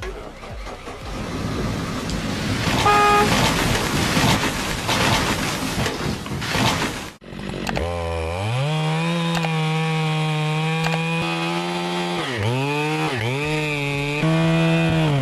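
A loud, rough noise for about seven seconds, with a brief beep about three seconds in. Then, after a sudden cut, a chainsaw revs up and runs at high speed, dropping off and revving back three times near the end.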